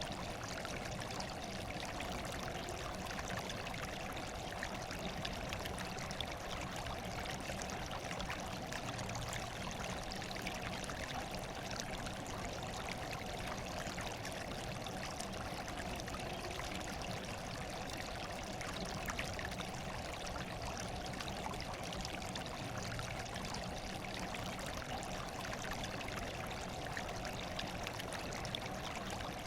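Steady, unchanging sound of running water.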